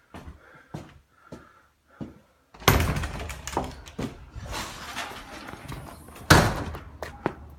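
Faint knocks about every half second, then a sudden loud bang about two and a half seconds in, followed by rattling and clattering, and a second loud bang near the end.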